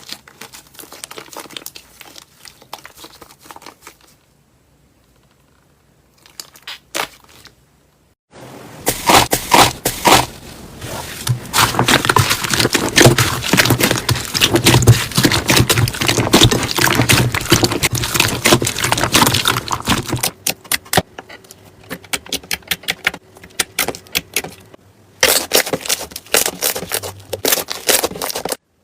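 Slime being squeezed and pressed by hand, giving dense crackling clicks and pops. After a near-silent pause of about two seconds the crackling turns loud for a long stretch, softens, then grows loud again near the end.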